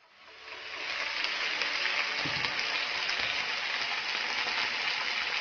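Sardines, onion and tomato sizzling in oil in a nonstick frying pan: a steady hiss that fades in over the first second.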